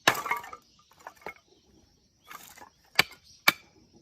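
Firewood being split with a blade: a short cracking, clattering burst at the start as the wood gives or pieces fall, then two sharp strikes on the wood about three seconds in, half a second apart.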